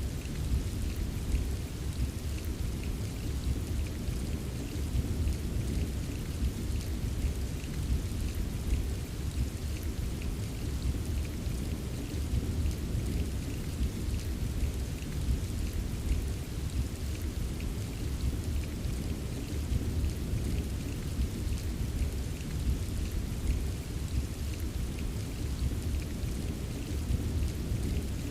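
Rain falling steadily, with light drop taps over a continuous deep rumble.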